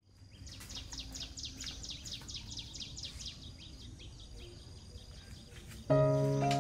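A bird calling in a fast, even series of high, descending chirps, about five a second, over quiet outdoor ambience. Background music comes in near the end and becomes the loudest sound.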